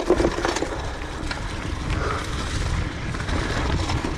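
Bicycle rolling fast down a dirt track: tyre noise on the dirt with scattered clicks and rattles, and wind buffeting the microphone.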